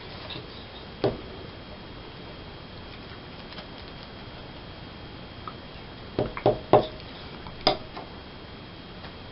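Magazine paper being handled: a few short rustles and taps, one about a second in and a cluster between about six and eight seconds in, over quiet room tone.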